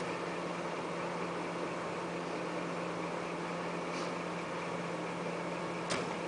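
Fire engine's diesel engine running steadily with a low hum, and a short sharp click near the end.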